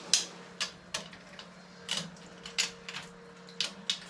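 Side cutters snipping and working at zip ties on a motorcycle: a dozen or so sharp, irregular clicks and snaps, over a steady low hum.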